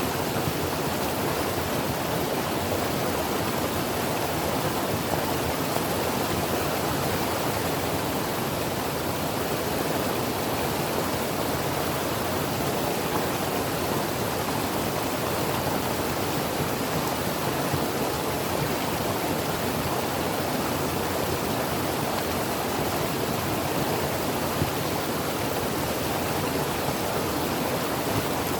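Creek water flowing over rocks, a steady, even rush with no change.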